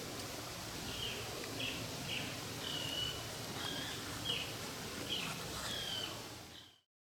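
Small birds giving short chirps and a few brief falling whistles, repeated several times, over a steady outdoor hiss; the sound fades out near the end.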